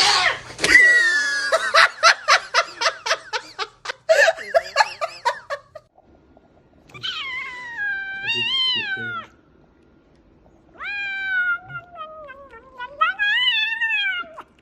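Domestic cat yowling: two long drawn-out meows in the second half, each rising and falling in pitch. Before them come a few seconds of rapid choppy vocal sounds, about five a second.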